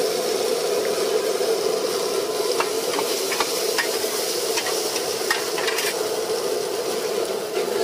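Food sizzling on a large flat iron griddle over a steady rushing sound, while metal spatulas stir and scrape it, with a run of sharp taps and clicks of the spatulas on the pan in the middle.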